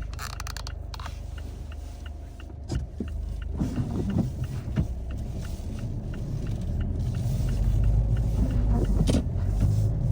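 Car driving, heard from inside: a steady low rumble of engine and road noise that grows louder from about three and a half seconds in as the car picks up speed, with a few sharp knocks and a faint row of light ticks early on.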